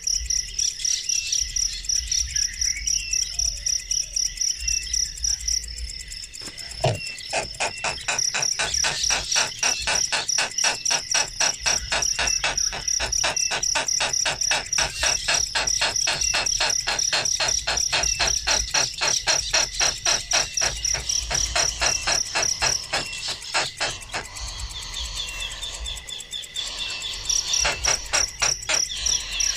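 Insects chirring in a high, fast pulsing rhythm. A denser, rasping train of rapid pulses joins in from about seven seconds in until about twenty-three seconds, with a single click as it starts.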